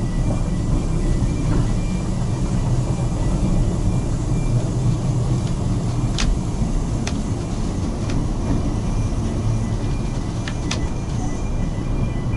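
Narrow-gauge passenger train running along the track: a steady rumble, with a few sharp clicks between about six and eleven seconds in.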